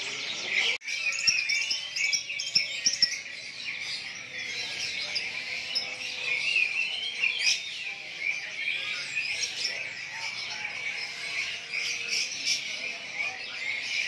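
Many caged songbirds chirping and singing at once, a dense, unbroken chorus of overlapping high chirps and trills, briefly cut off about a second in.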